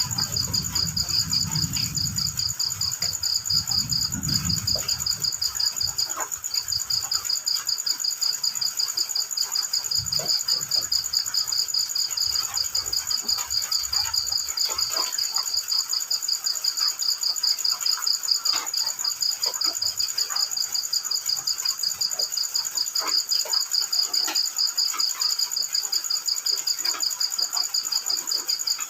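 Crickets chirping in a fast, continuous pulsing trill, with a second steady high insect tone above it. Faint scattered drips sound throughout, and a low rumble comes in the first few seconds.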